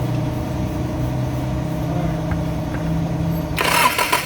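Toyota Hilux 2GD four-cylinder diesel engine started on a newly fitted starter motor and running. The starter's Bendix drive disengages cleanly once the engine fires, the sign of a good starter. A sudden louder hiss comes in near the end.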